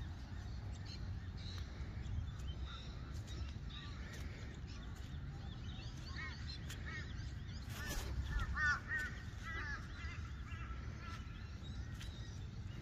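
Wind rumbling on the microphone, with scattered short bird calls and a quick run of repeated chirping notes a little past the middle.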